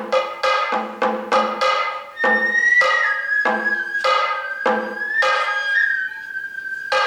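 Sato kagura music: a flute holding and bending a high melody line over a steady beat of drum strikes, about one and a half a second.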